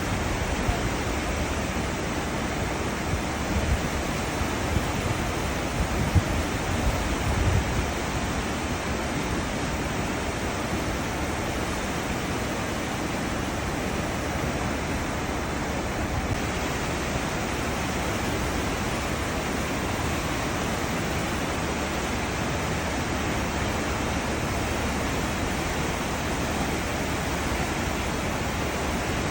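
Churning seawater of a cruise ship's wake, a steady, even rush, with a few low bumps in the first several seconds.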